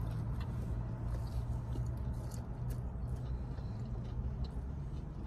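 Chewing and biting pizza crust: faint, scattered crunches and mouth sounds over a steady low hum.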